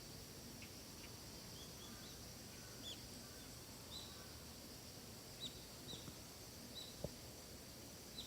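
Faint forest ambience: a small bird gives short, high chirps about once a second from about three seconds in, over a steady high hiss. One brief sharp tap about seven seconds in.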